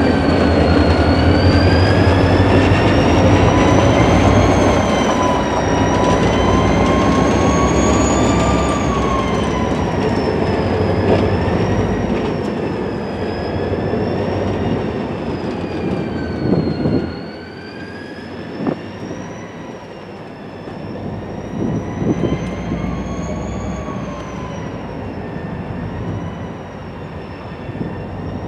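Herzog rail work train of flatcars rolling past, rumbling and clattering over the rails; the rumble eases off a little over halfway through as the trailing locomotive clears. A high ringing tone that slowly wavers in pitch runs on throughout, with scattered sharp clicks in the later part.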